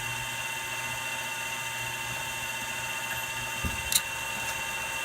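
Milling machine running steadily with a constant whine and hum. Two short sharp clicks near the end, the second the loudest.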